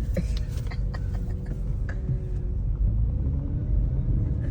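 Steady low rumble of a car rolling slowly, heard from inside the cabin, with a few faint clicks.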